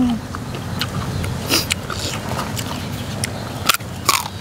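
A man chewing a mouthful of spicy raw-shrimp salad and fresh vegetables close to the microphone, with wet mouth clicks, crunches and smacks scattered through.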